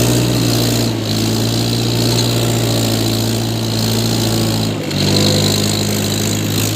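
Mahindra 475 tractor's diesel engine running steadily. About five seconds in there is a short break, and the engine note then settles at a slightly different pitch.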